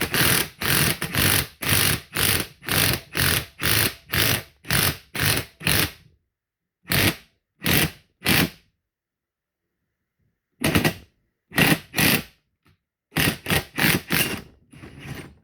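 Ridgid impact wrench hammering in short bursts, about two a second, turning the screw of a ball-joint press to drive a wheel bearing into a steering knuckle as the bearing starts to move. The bursts run steadily for about six seconds, then come in shorter groups with pauses between.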